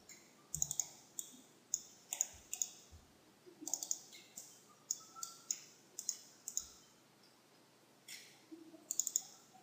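Computer mouse clicking repeatedly at an uneven pace, single clicks mixed with quick double clicks and short runs, with brief pauses between groups.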